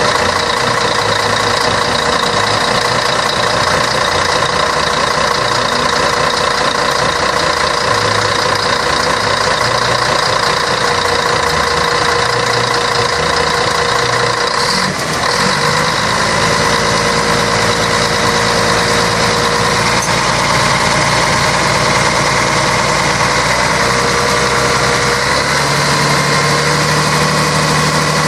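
Scania K113 bus's straight-six diesel engine running steadily, with a brief dip in level about halfway through and a change in its low note in the last few seconds.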